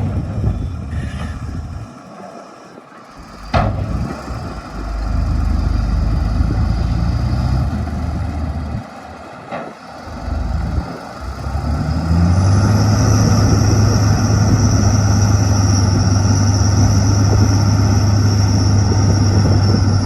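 Shantui DH17-C2 bulldozer's diesel engine working, easing off twice and then revving up about twelve seconds in to a loud, steady pull with a high whine over it. There are two sharp clanks in the first few seconds.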